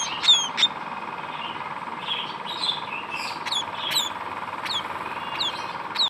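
Small pipit (munia) chirping: short, high, downward-slurred chirps, several quick ones in the first second, then more spaced out.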